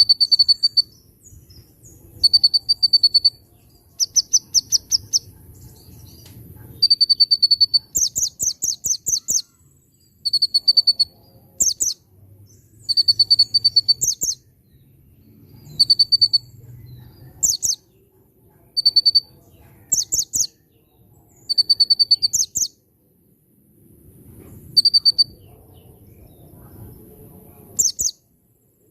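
Konin (a prinia) singing steadily in repeated short phrases: a buzzy note alternating with fast runs of sharp, high chirps, a phrase every second or two, over a faint low rumble.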